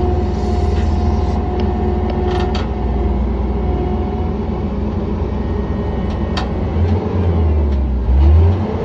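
John Deere 317 skid steer's diesel engine running steadily, with a few sharp clicks and knocks and a brief swell in engine sound near the end.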